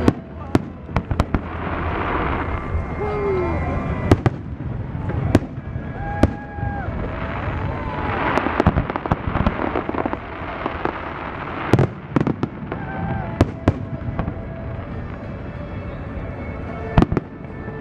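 Aerial fireworks going off: a dozen or more sharp bangs at irregular intervals, with crowd voices underneath.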